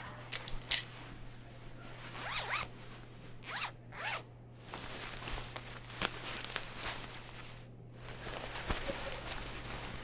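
A zipper pulled in several short strokes, with a sharp click about a second in.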